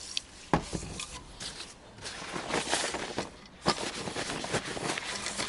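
Workshop handling and cleaning of a brush-painted bike part: a couple of sharp knocks, the first about half a second in and another near the middle, with stretches of irregular scraping and rubbing between them.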